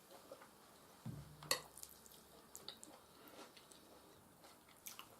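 Faint, close mouth sounds of eating soft food, mashed potatoes and beef stew: small wet clicks and smacks. A low thump comes just after a second in, followed by a sharp click, the loudest sound.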